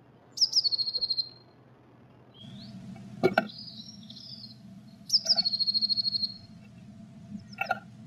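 Blue tit singing twice: high thin notes dropping into a fast, even trill, each phrase about a second long. A short chattering call comes between them, and two sharp knocks are heard, one about three seconds in and one near the end.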